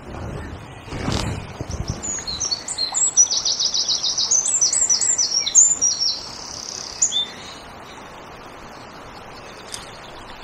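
A songbird sings one long, rapid, high-pitched song of about five seconds, made of fast repeated notes and quick down-slurs. Under it runs a steady rush of river water, with a brief low rumble about a second in.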